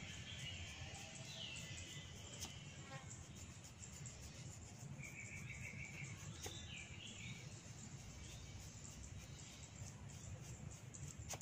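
Faint birdsong, short chirps and a quick trill, over a steady low background noise, with a few sharp clicks spread through it.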